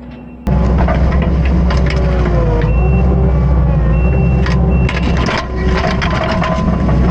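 Compact track loader (Kubota SVL75-2) working under load, starting suddenly about half a second in: a strong low diesel engine hum with hydraulic whine gliding up and down in pitch. Short, high, steady beeps sound several times, along with sharp cracks and clicks.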